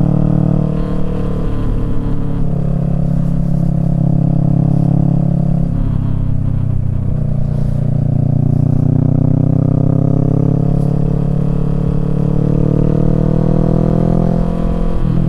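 Kawasaki Z650 parallel-twin engine through a Yoshimura Alpha exhaust, running under way. Its note shifts about six seconds in, then rises steadily in pitch over the last few seconds before dropping briefly near the end.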